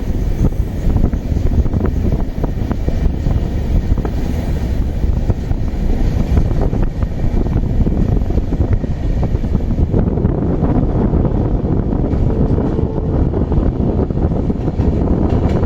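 Moving train heard from on board: a steady low rumble with many small knocks from the wheels and track, and wind buffeting the microphone.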